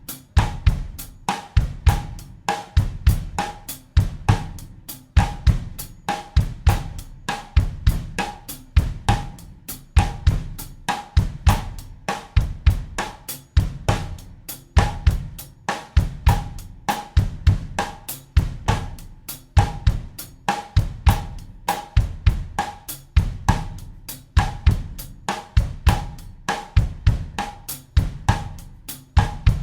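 Acoustic drum kit playing a steady bossa nova groove at 100 beats per minute in 4/4, the same pattern repeating evenly as a loop.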